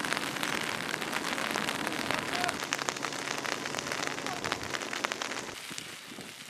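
Heavy rain falling, with many separate drops clicking.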